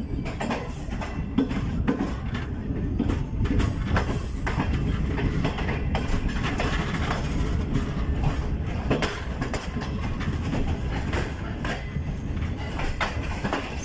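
Passenger train coaches rolling into a station. The wheels rumble steadily and clack over the rail joints, with a few brief high wheel squeals.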